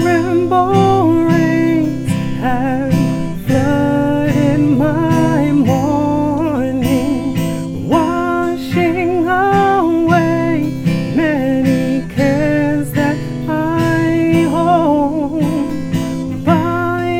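Music from an acoustic song: a strummed acoustic guitar holding chords, with a melody line over it that slides and bends in pitch.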